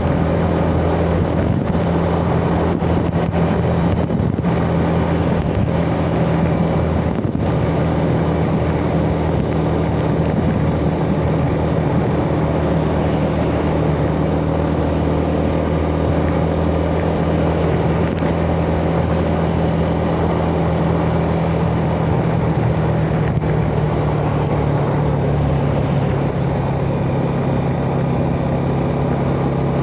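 Yamaha Jupiter Z's single-cylinder four-stroke engine running steadily while the motorcycle is ridden, with a constant rush of road and wind noise. The engine pitch drops slightly about 26 seconds in.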